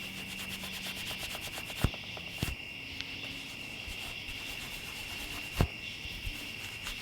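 Rubbing a part by hand with fine 0000 steel wool to clean it without polishing: a quick, scratchy back-and-forth rubbing. Sharp knocks come about two seconds in and again near six seconds.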